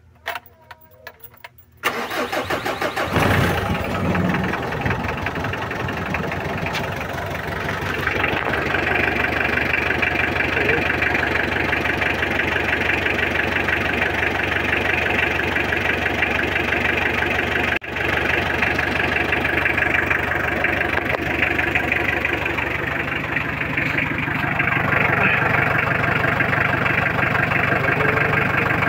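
Mitsubishi L300 diesel engine, pre-heated on its glow plugs, started with the key: a few clicks, then it cranks and catches within about two seconds and settles into a steady idle. This is a test of whether the hard-starting engine fires on the first turn of the key.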